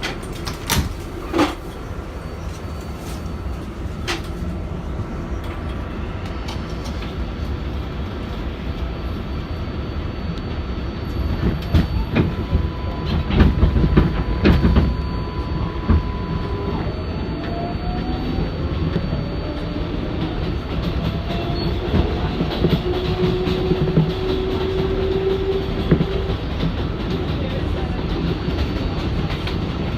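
Inside an R188 subway car on a moving 7 express train: a steady rumble of wheels on the rails, with clicks as the wheels pass rail joints. It grows louder for a few seconds mid-way, and thin high tones come and go in the second half.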